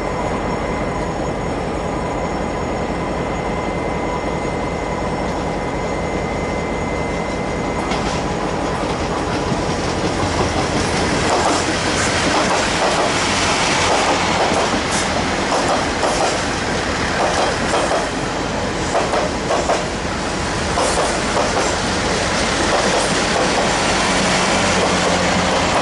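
TRA DR3000 diesel passenger train passing through a station. A steady whine is heard at first; after about eight seconds the train grows louder, and its wheels clatter over the rail joints as the carriages go by.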